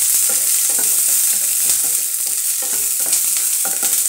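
Shallots sizzling in hot oil in a nonstick pan, stirred with a spatula in strokes about twice a second over a steady frying hiss.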